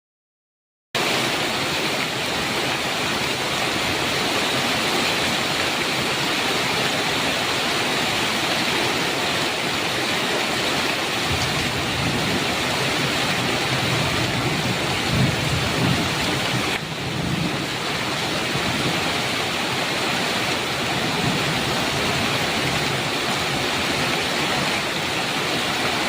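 Heavy rain pouring steadily on a metal roof, with thunder rumbling low from about eleven seconds in to about eighteen. The rain cuts in after a second of silence at the start.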